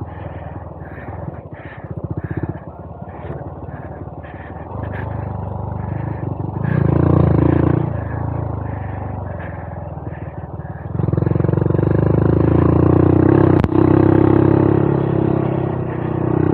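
Honda Monkey 125's single-cylinder engine pulling the bike along a trail, running at low revs at first, then opened up with a brief surge and, about eleven seconds in, held at higher load to the end. A single sharp knock sounds a little after the engine steps up.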